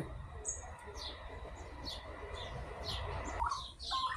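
Birds calling: a run of short, high, falling chirps about twice a second, then lower warbling notes starting near the end.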